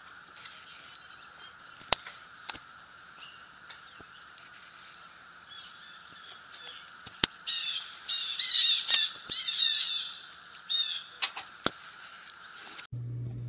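Outdoor ambience with birds calling: a burst of harsh, chattering bird calls from about the middle to two-thirds of the way through, over a steady high drone, with a few sharp clicks.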